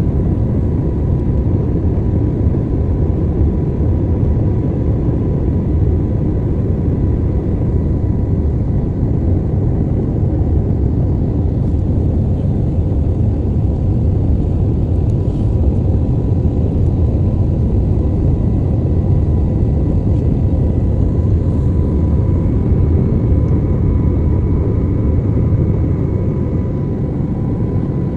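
Steady airliner cabin noise: a loud, even rumble of engines and airflow, with a faint steady whine on top.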